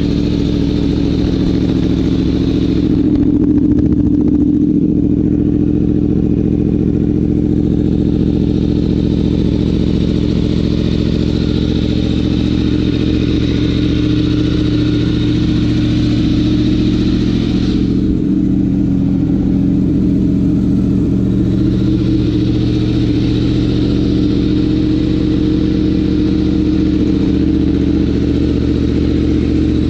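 Yamaha MT-10's crossplane inline-four idling steadily through an aftermarket Austin Racing exhaust, briefly a little louder about four seconds in.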